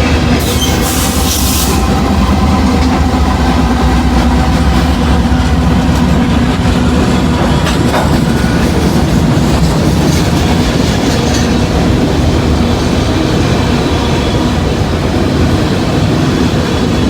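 Long freight train passing close by, its wheels clicking over rail joints under a steady rumble, with a brief high hiss near the start.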